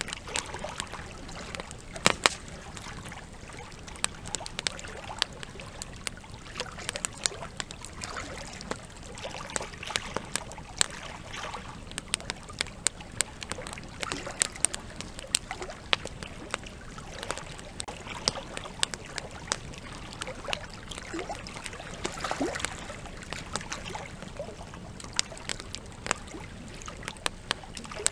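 Wood campfire crackling, with irregular sharp pops and snaps, over the steady rush of a flowing river.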